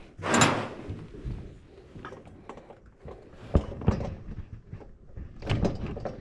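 Tools and engine parts being handled: a scraping rush about half a second in, two sharp knocks a little past halfway, and another scrape near the end.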